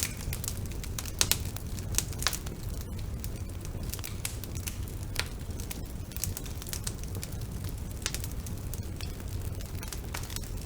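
Bonfire burning: a steady low rush of flames with irregular crackles and sharp pops from the burning wood, a few louder pops between about one and two and a half seconds in.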